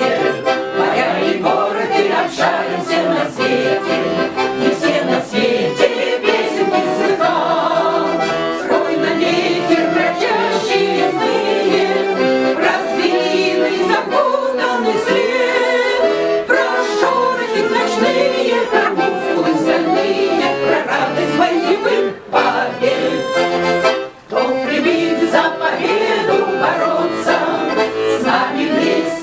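Accordion playing a lively instrumental passage of the song's melody, with two brief pauses near the end.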